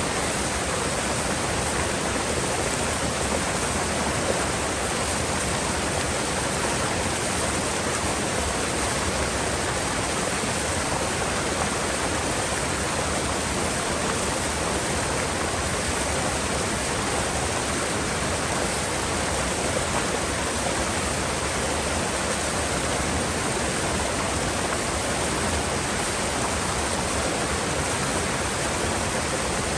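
Steady rush of a mountain river's flowing water, an even, unbroken wash of sound with no change in level.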